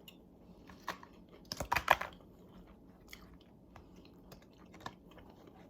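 Close-miked chewing and mouth sounds of a person eating, with small wet clicks and a louder burst of chewing about two seconds in.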